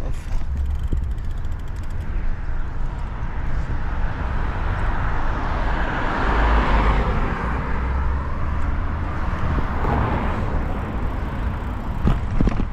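Road noise heard while riding a bicycle: a steady low rumble of wind on the microphone, with a passing motor vehicle that swells up to a peak about halfway through and fades away again.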